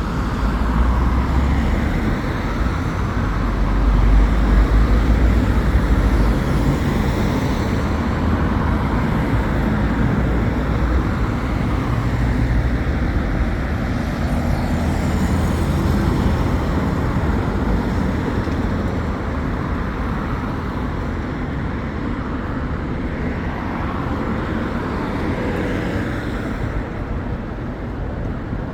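Road traffic passing: car, van and truck engines with tyre noise, loudest about four to seven seconds in and easing off after.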